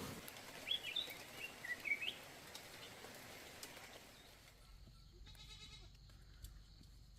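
A few short, high calls with quickly bending pitch from an animal, in the first two seconds, over a faint background hiss.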